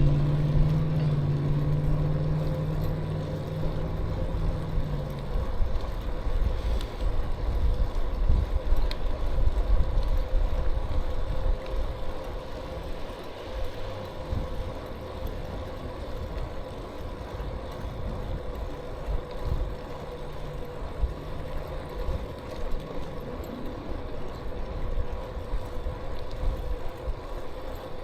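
Low, uneven wind-and-road rumble while riding a bicycle, with a motor vehicle's engine hum passing close by in the first few seconds. A faint steady whine runs underneath throughout.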